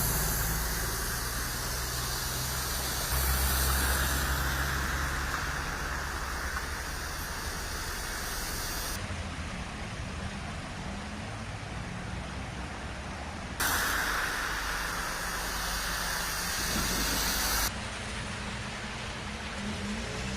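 Vehicles driving through rainwater on flooded roads: a steady hiss of water spray over low engine noise. The sound changes abruptly several times, as the footage cuts between scenes.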